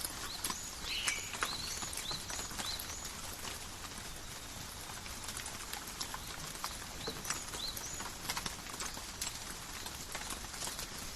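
Calm steady rain falling in a forest, with close drops pattering and ticking on leaves. Short high chirps are scattered through it.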